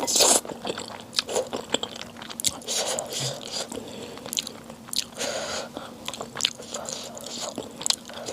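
Close-miked eating: a loud bite right at the start, then a steady run of chewing with many short, crisp clicks and soft wet noises.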